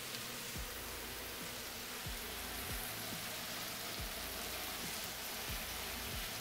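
Vegetables and pineapple chunks sautéing in a frying pan: a faint, steady sizzling hiss, with soft low thumps now and then.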